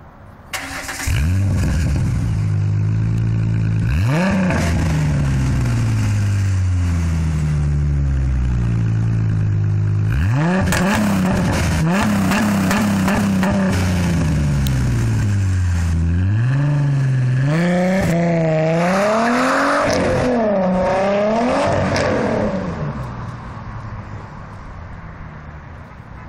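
2007 Ford Mustang's 4.0 L V6 running through a Pypes axle-back exhaust, revved hard several times with the pitch climbing sharply and falling back slowly. A run of quicker blips follows, then it settles to a quieter idle near the end.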